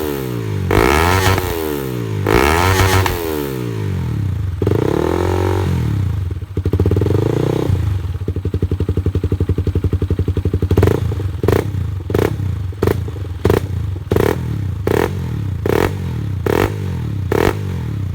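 Motorcycle engine running through a newly built custom exhaust. It is revved up and down several times, settles into a steady idle, then gives short sharp throttle blips about every two-thirds of a second for the last several seconds.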